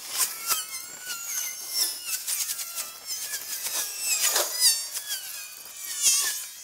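Birds chirping: many short, quick calls overlapping one another, with a fast trill about six seconds in.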